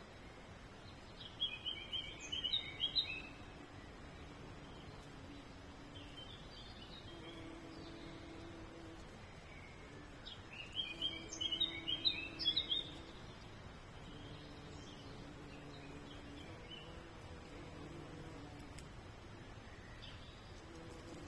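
A songbird singing outdoors: two bursts of quick, high chirping phrases about nine seconds apart, with fainter single notes between them, over a faint low background hum.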